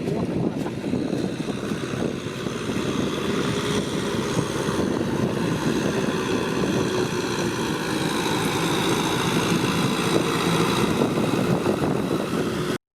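Tractor engine running steadily with a droning hum that shifts a little in pitch, cutting off suddenly near the end.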